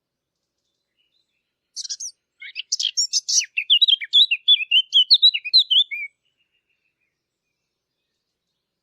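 A Sylvia warbler, the bird called the fig bird, sings one phrase of about four seconds. It opens with a few scratchy high notes and runs into a quick, loud stream of clearer warbled notes.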